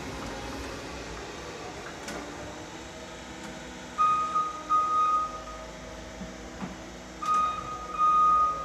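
Warning beeper of a 2009 Flexi G4 electric forklift truck sounding long, high beeps, starting about four seconds in and resuming near the end, over a steady background noise.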